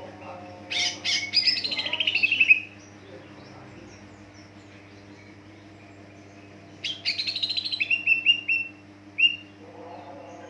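Green leafbird (cucak ijo) singing two rapid chattering phrases of quick notes stepping down in pitch, a few seconds apart, over a steady low hum.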